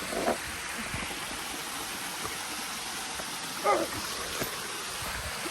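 Steady rushing of a mountain stream, with two short vocal sounds on top of it, one just after the start and one nearly four seconds in.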